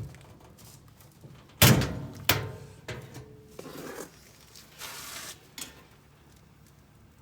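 Boiler front case being handled and set down: a loud clunk about one and a half seconds in, a second one shortly after, then lighter knocks, a brief scrape and a click.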